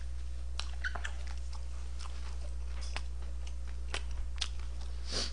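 A person chewing a mouthful of food close to the microphone, with short mouth clicks at irregular intervals, roughly one or two a second.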